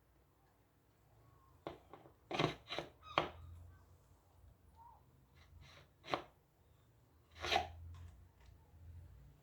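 Fan parts being handled and fitted together during assembly: irregular sharp clicks and knocks, several in quick succession around two to three seconds in, then single ones about six and seven and a half seconds in.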